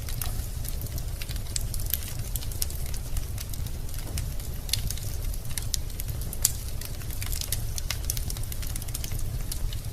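Wood fire burning in a fireplace: a steady low rumble of flames with many irregular sharp crackles and pops of burning logs, one louder pop about six and a half seconds in.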